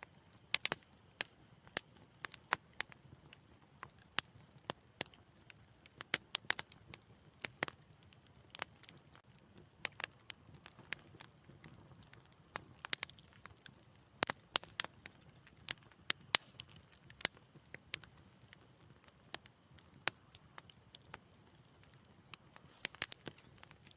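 Wood fire crackling in a fireplace: irregular sharp pops and snaps, a few a second, over a faint low hiss of burning.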